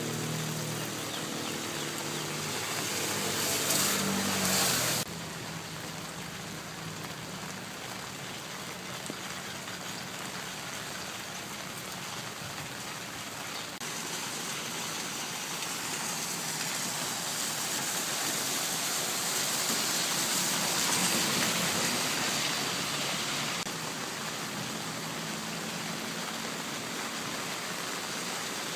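Heavy rain falling in a steady hiss, changing abruptly a few times where the footage is cut. For about the first five seconds a vehicle engine hums under the rain.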